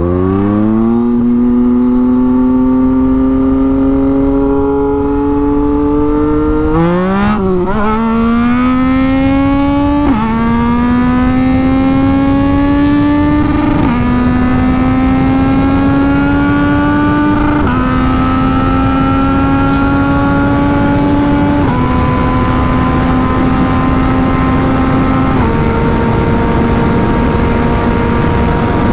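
Yamaha MT-09's inline three-cylinder engine, with an aftermarket exhaust and a flashed ECU, pulling hard under full acceleration. It shifts up about six times, the pitch dropping at each change and then climbing again, more and more slowly in the top gears as the bike nears top speed.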